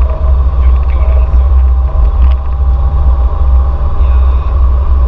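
A car's dense low rumble with a steady faint whine above it, heavy on the microphone: a Toyota AE86 Sprinter Trueno.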